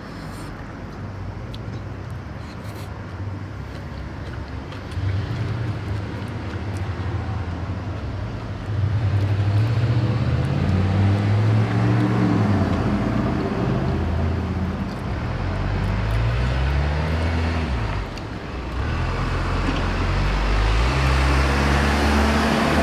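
A motor vehicle engine running close by, its pitch rising and falling, louder from about nine seconds in.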